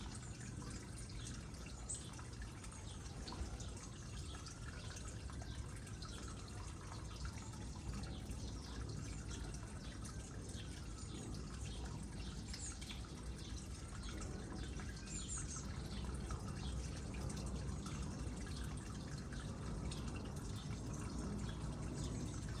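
Water trickling into a small pond, with many small drips and plinks scattered over a low steady rumble.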